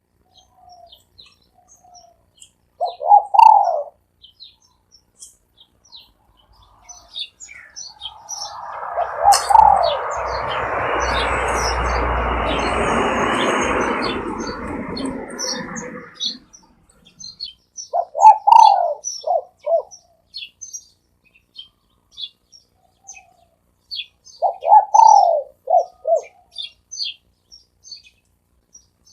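Spotted dove cooing three times, each a short phrase of a few coos, about three seconds in, about eighteen seconds in and about twenty-five seconds in, with small birds chirping high in the background. A loud rushing noise rises and falls from about eight to sixteen seconds.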